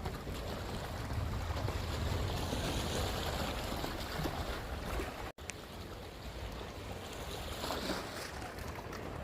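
Rainy outdoor ambience: a steady hiss of rain and wet surroundings with low wind rumble on the microphone. The hiss swells for a couple of seconds early on and again near the end, and the sound cuts out completely for an instant about five seconds in.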